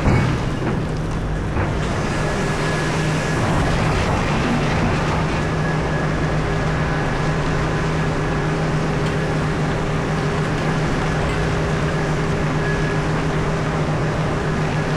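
Komatsu PC4000 mining excavator running steadily, a constant low hum with a faint high whine, while it digs and loads. A single loud knock comes right at the start.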